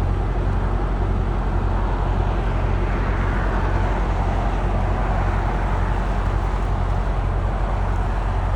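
Semi truck's diesel engine running with a steady low drone, along with road noise, while the truck is driving.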